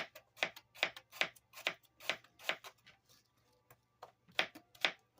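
Knife chopping apple on a cutting board: a steady run of sharp knocks, about two to three a second, that stops about three seconds in, followed by two more knocks near the end.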